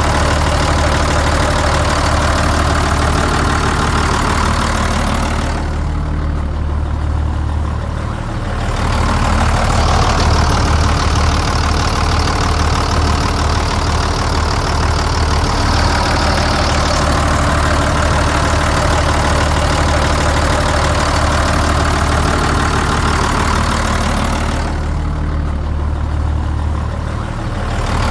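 Diesel engine of a 1996 Mack CS200P truck, rated 180 hp, idling steadily. The hiss in the higher sounds fades briefly twice.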